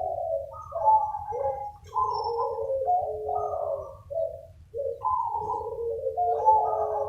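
Several zebra doves cooing, answering one another so that their phrases overlap almost continuously, with only short gaps.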